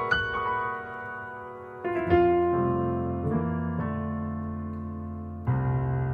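Piano playing slow, sustained jazz chords, a new chord struck every second or two and left to ring and fade. The chords are upper-structure voicings moving through a 6-2-5-1 turnaround.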